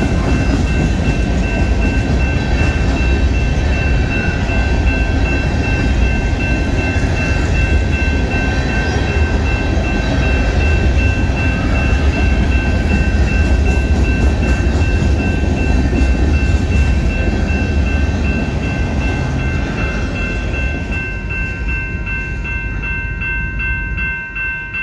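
Union Pacific mixed freight train cars rolling past over a grade crossing with a steady low rumble and wheel noise, while the crossing's warning bell rings throughout. About 21 seconds in, the train noise fades as the last car clears, leaving the bell ringing on its own.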